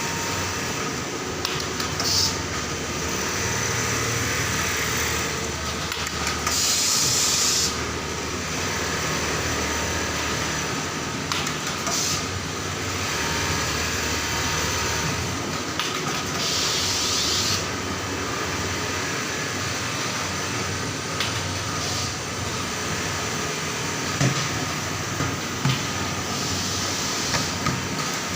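Industrial template sewing machine running steadily, with a short hiss roughly every ten seconds.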